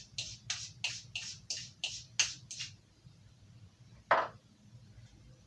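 Carving knife blade stroked rapidly across a ceramic sharpening stone, about eight short scraping strokes at roughly three a second, stopping under three seconds in. About a second later comes a single louder knock, the loudest sound here.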